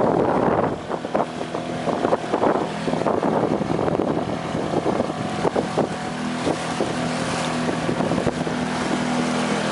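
Strong wind buffeting the microphone over choppy lake waves splashing, with irregular gusts and slaps. A faint steady low hum runs underneath and is plainest in the second half.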